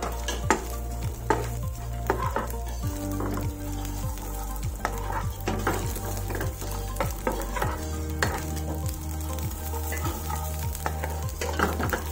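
Small coconut pieces sizzling as they fry in ghee in a non-stick pan, with a spatula scraping and turning them in quick, repeated strokes.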